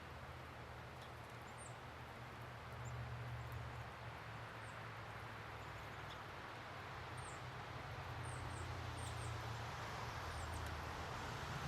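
Small songbirds at feeders giving short, high chips and chirps, scattered and more frequent in the second half, over a steady low rumble.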